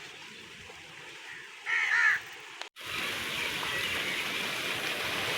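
Heavy rain falling, with one loud animal call about two seconds in. The audio cuts out for an instant just before the middle, and the rain then comes in louder and denser.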